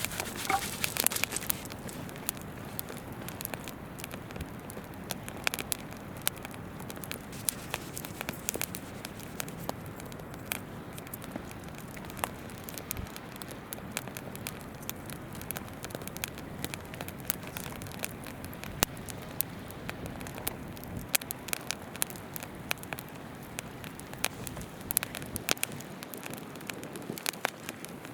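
Wood campfire crackling, with irregular sharp pops over the steady murmur of a shallow stream running nearby.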